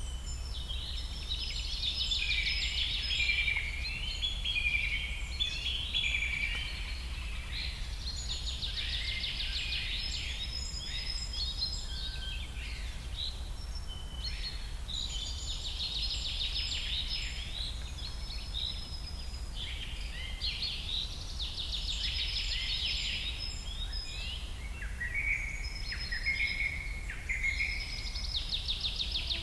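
Songbird singing in phrases of rapid trills and warbles a few seconds long, starting about every six or seven seconds, over a steady low rumble.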